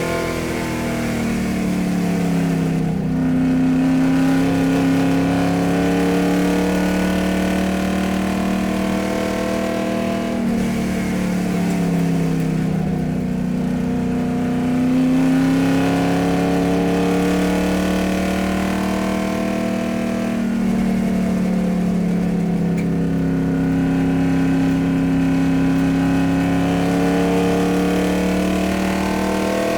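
Motor vehicle engine running steadily. Its pitch slides down and then holds level about every ten seconds.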